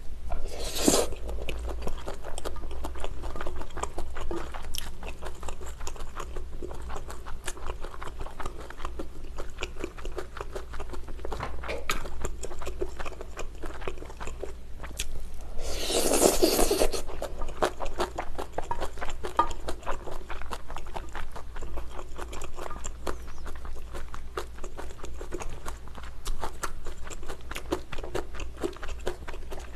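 Close-miked chewing and biting of pad thai stir-fried rice noodles, with a constant patter of small wet mouth clicks. There are two louder, noisier bursts, one about a second in and one about halfway through.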